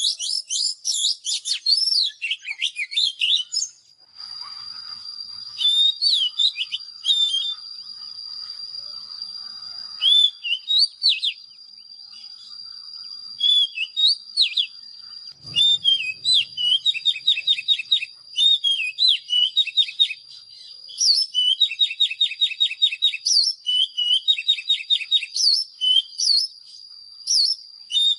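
Oriental magpie-robin singing a varied song of clear slurred whistles and fast rattling trills, over a steady thin high tone that starts about four seconds in. A brief low thud comes about halfway through.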